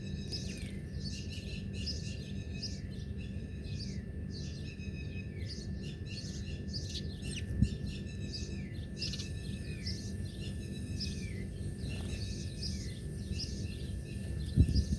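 Songbirds chirping in quick repeated phrases, over a steady low rumble. Two short low thumps, about halfway through and near the end.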